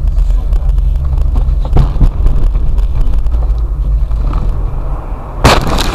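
Steady low rumble of a moving car's engine and road noise heard inside the cabin, with small knocks, then a sharp loud bang about five and a half seconds in.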